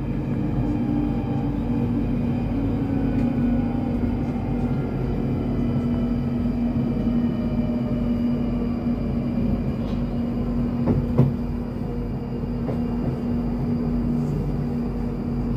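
Electric passenger train running, heard from on board: a steady hum with a faint whine that slowly falls in pitch, and a couple of sharp knocks about eleven seconds in.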